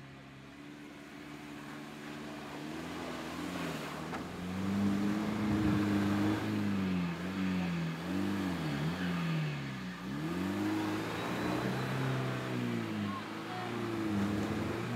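Off-road 4x4's engine revving up and down again and again, louder from about four seconds in.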